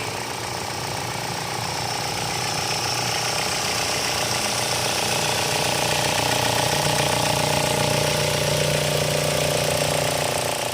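A 2013 Kia Sportage SE's 2.0-litre petrol engine runs steadily. It grows a little louder through the middle and starts to fade out near the end.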